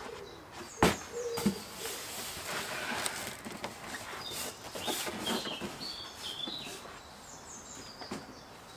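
Small birds chirping in short high calls, with a sharp knock about a second in.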